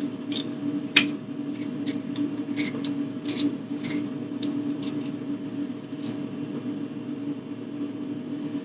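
Food containers and packaging being handled and set down: scattered light knocks and clicks, the sharpest about a second in, over a steady low hum.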